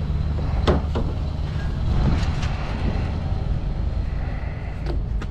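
A motorboat's engine running steadily with a low, even hum. A few short knocks come through about a second in and again near the end.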